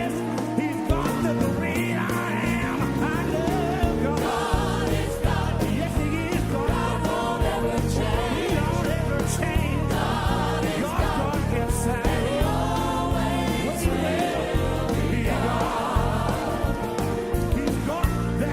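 Live gospel music: a worship band plays with several voices singing together over a steady beat.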